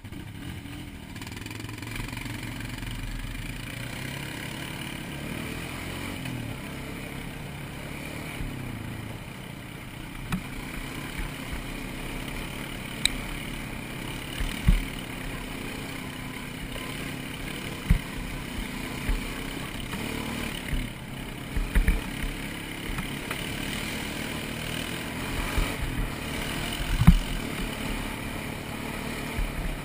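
ATV engine running steadily as the quad rides a trail, its pitch rising and falling a little. Short low thumps break in now and then from about a third of the way in.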